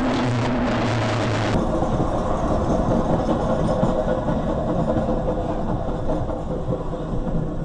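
A loud rushing noise cuts off about a second and a half in. It gives way to steady vehicle engine and road noise with a low rumble and a faint steady hum.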